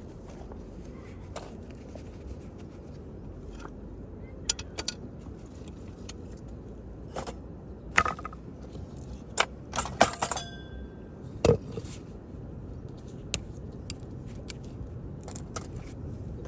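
Scattered clinks and knocks of metal gear being handled, one ringing briefly about ten seconds in, over a steady low rumble.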